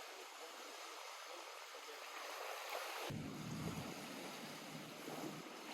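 Lake water washing and lapping at the shore, a steady gentle wash; about three seconds in a low rumble joins it.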